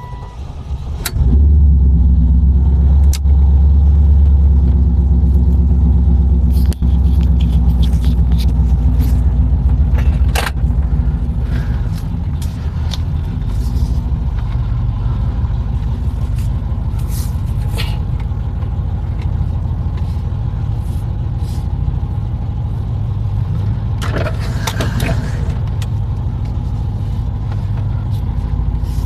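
1996 Chevrolet Impala SS V8 starting about a second in and idling. It idles high and loud at first, then settles to a lower, steady idle after about ten seconds, typical of a cold start. A few clicks sound over it.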